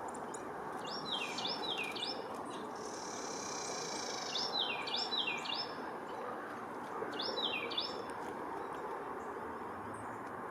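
Carolina wren singing: three bursts of quickly repeated phrases, each note dropping in pitch, over a steady background hiss.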